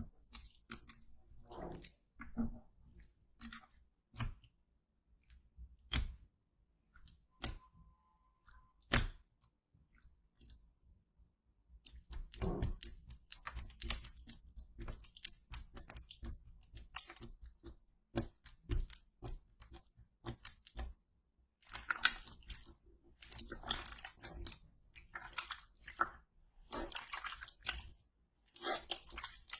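Slime being handled for ASMR: a run of small wet pops and clicks, sparse at first, then coming thick and fast from about twelve seconds in.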